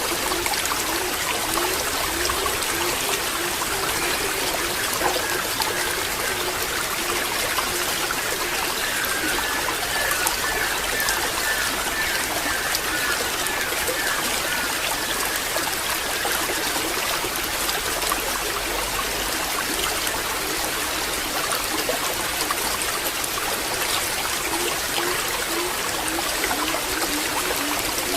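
Water trickling steadily, with small gurgles and bubbling all through.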